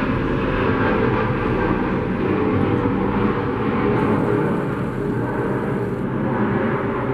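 Airplane landing, its engine noise a loud, steady rush that eases slightly toward the end.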